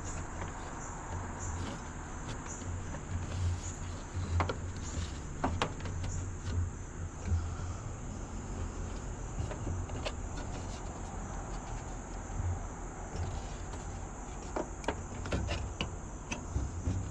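Scattered clicks and taps of hand work on a bathroom fan's vent fitting, over a steady outdoor background with a constant high insect drone.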